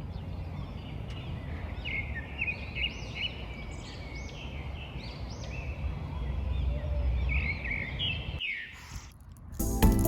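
Birds chirping in short repeated calls over a steady low outdoor rumble; both stop suddenly near the end.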